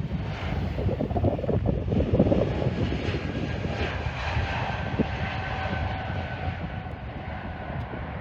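Jet airliner's engines passing, a loud steady rush with a faint whine that sinks slightly in pitch, over low buffeting of wind on the microphone.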